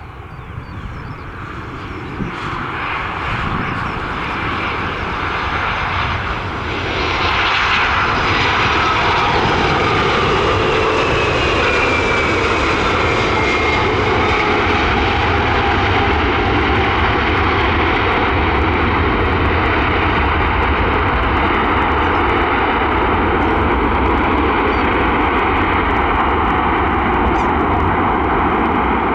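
Airbus A319's twin IAE V2500 turbofan engines at departure power: the jet noise builds over the first several seconds, then holds loud and steady, with a high whine that falls in pitch partway through as the aircraft passes.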